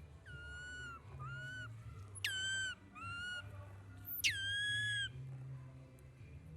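Baby monkey crying in five high, whistle-like calls: three short, even ones and two louder ones that each begin with a sharp downward sweep, the last held for about a second. A steady low hum runs underneath.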